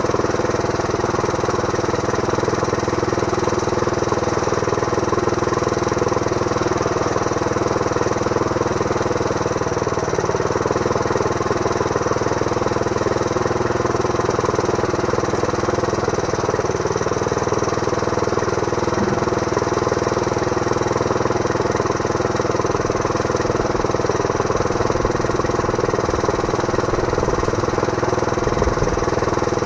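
Small Briggs & Stratton gasoline engine running steadily at constant speed, driving a homemade bandsaw through a right-angle gearbox. A few faint low knocks come near the end.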